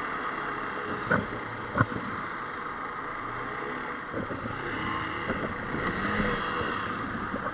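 Motorbike on the road, its running engine mixed with steady wind and road noise on a helmet-mounted camera mic, with two sharp knocks about a second and just under two seconds in.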